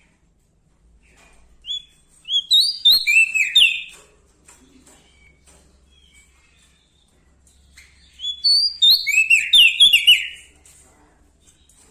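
A small songbird singing two bursts of fast, high chirping notes, the first about two seconds in and the second about eight seconds in, with a short pause between them.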